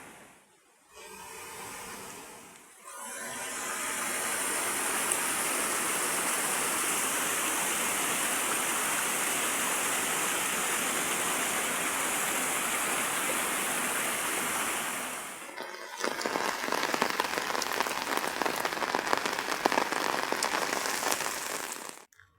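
Heavy rain falling as a steady hiss. About 15 seconds in it changes to a denser patter of individual drops striking a nearby surface, then cuts off suddenly near the end.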